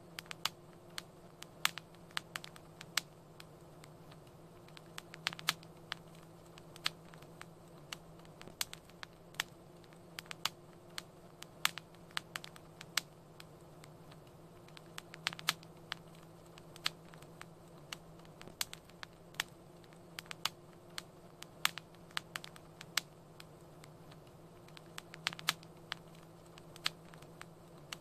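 Wood fire crackling: irregular sharp pops and snaps, a few close together at times, over a low steady hiss of burning.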